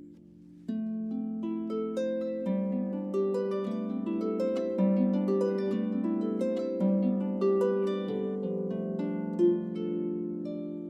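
Solo harp playing a slow, flowing melody of plucked, ringing notes over sustained lower notes; the music comes back in about a second in, after the last chord has faded.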